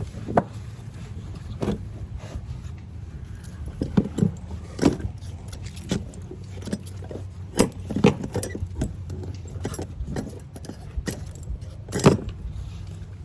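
Small metal fishing tackle (hooks, weights, swivels) clinking and clacking irregularly as it is handled and pulled apart, over a steady low rumble.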